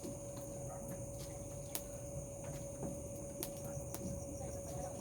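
Night chorus of crickets trilling steadily at a high pitch, with a steady lower hum beneath and a few sharp clicks scattered through.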